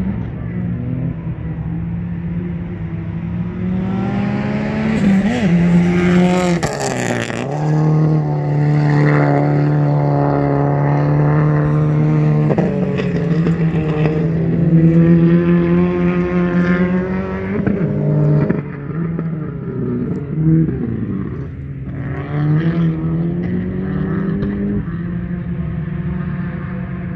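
Car engine revving hard as it is driven around a course. The note climbs under acceleration and falls sharply several times, then climbs again.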